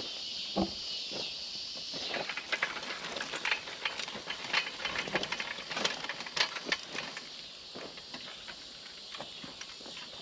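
Walk-behind garden seeder being pushed down a row, its wheels and seed plate clicking and rattling irregularly from about two seconds in, easing off near the end. Under it runs a steady high hiss of insects.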